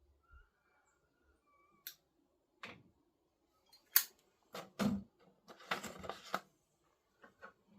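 Small clicks, taps and scrapes of a tobacco pipe and a metal pipe tamper being handled. The sharpest click comes about four seconds in, followed by a short run of taps and scraping.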